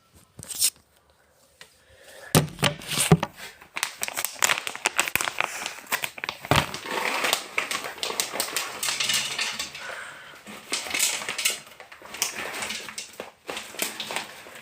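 Bag of dry cat food crinkling and kibble rattling as it is poured into a bowl. After a short near-quiet start it becomes a dense run of small clicks and rustles.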